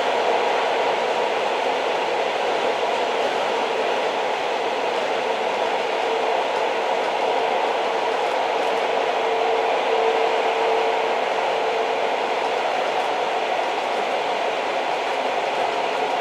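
Old train running: a steady, even rolling rumble with no distinct wheel clicks, and a faint steady hum that swells briefly about two-thirds of the way through.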